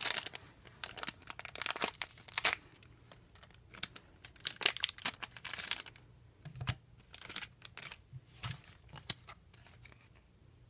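A trading-card booster pack being torn open and its wrapper crinkled: a quick run of tearing and crinkling rustles in the first couple of seconds, then scattered rustles that thin out near the end.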